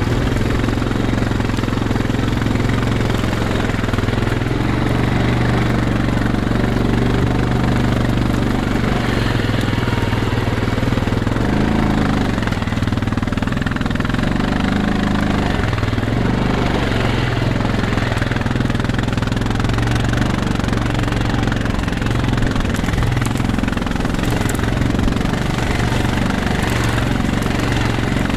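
Engine of a small motor vehicle running hard at speed over rough field ground. The hum is steady and loud, with its pitch wavering a little as the throttle changes.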